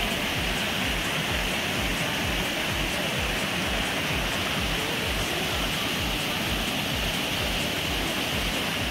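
Steady rushing of a mountain waterfall, an even wash of falling water.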